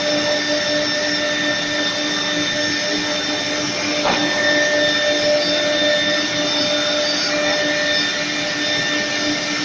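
CNC router spindle motor running at steady speed: an even high whine over a steady hiss.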